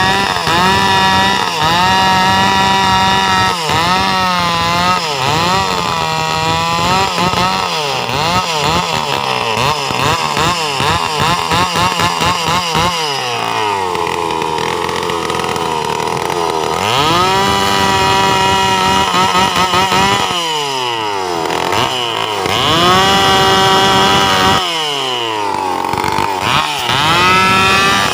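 Stihl two-stroke chainsaw revved repeatedly: quick throttle blips, then revs held high for a few seconds at a time and dropped back to idle between them.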